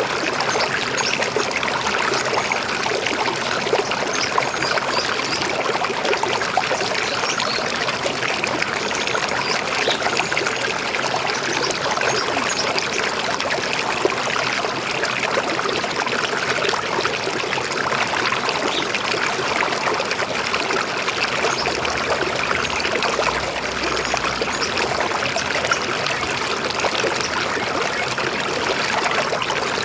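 River water flowing steadily over stones, a continuous babbling, gurgling rush.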